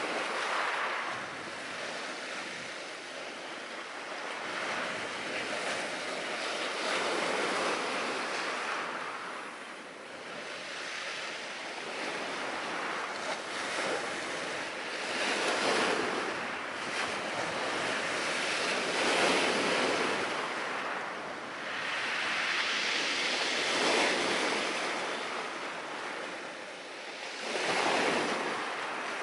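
Ocean surf washing on the shore, the noise swelling and falling back in slow surges every few seconds.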